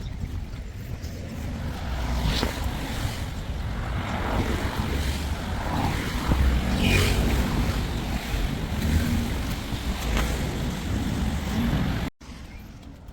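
Wind buffeting the microphone outdoors, a heavy rumbling noise that cuts off suddenly near the end.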